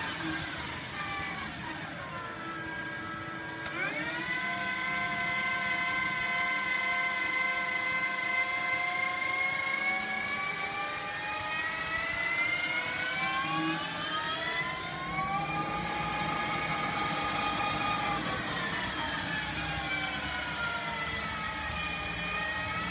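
Narvik CD330Jx750 Vario lathe's variable-speed spindle drive running with a whine of several tones whose pitch glides down, jumps up sharply about four seconds in, then rises and falls slowly several times: the spindle speed shifting under constant surface speed control.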